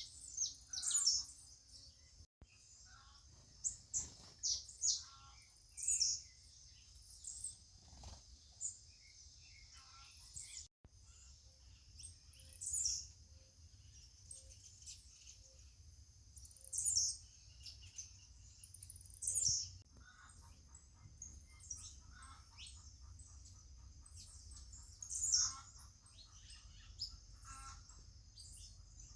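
Several birds chirping outdoors in short, high calls every second or two, over a steady high hiss and a low background rumble.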